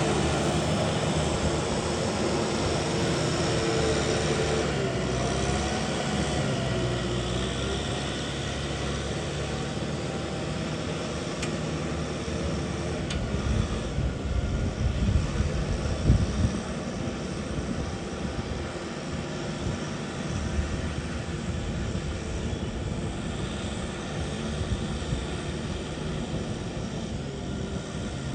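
An engine running steadily with a low rumble, louder and rougher for a few seconds around the middle.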